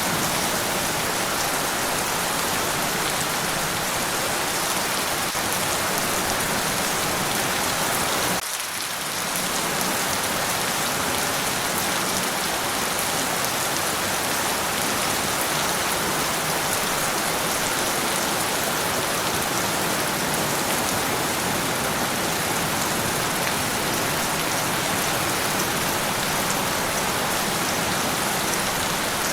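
Steady rain falling, an even, dense hiss with no thunder. The level drops briefly about eight seconds in, then returns to the same steady rain.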